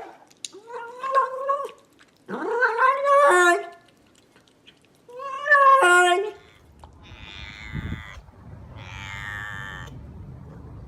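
Domestic cat yowling: three loud, drawn-out calls, each a second or so long, with the pitch bending up and then down. About seven seconds in, these give way to quieter, rougher noisy vocal sounds.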